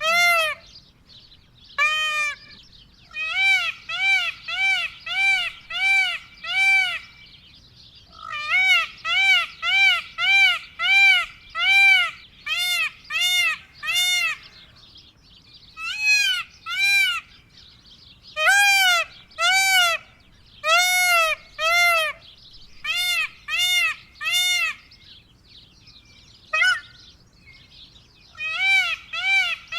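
Indian peafowl (peacock) calling: loud, short arched calls repeated about two a second in runs of two to eight, with pauses of a second or two between the runs.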